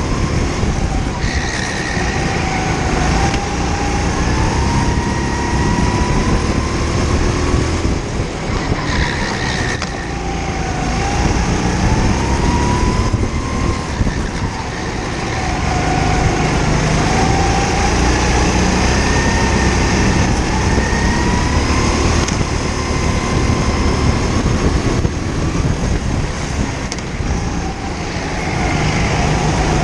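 Indoor go-kart engine heard on board, its pitch climbing as it accelerates and dropping off several times as it slows for corners, over a constant rumble.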